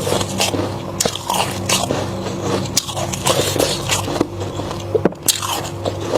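Biting and chewing flaky freezer frost: dense, irregular crisp crunches and crackles, over a steady low hum.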